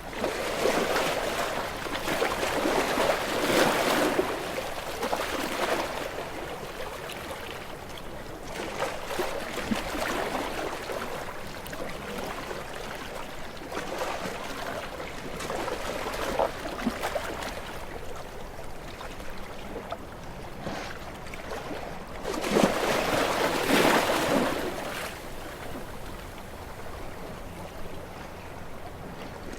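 Small waves washing onto a shore, each one swelling into a rush and draining away, with the two biggest surges near the start and a little past the middle.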